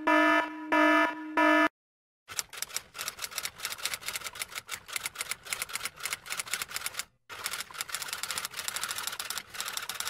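An alarm beeping, three short pitched beeps in the first two seconds. After a brief silence, typewriter keys clatter in a rapid, uneven run of clicks, broken once by a short pause about seven seconds in.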